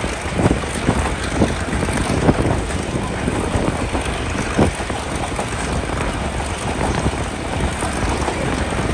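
Passenger train running along the track: a steady rumble with rushing air and irregular sharp knocks from the wheels.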